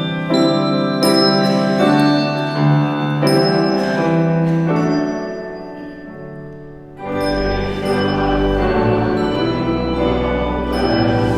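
Instrumental music: a run of struck, bell-like notes that ring and die away, then about seven seconds in a sustained organ chord with deep bass comes in.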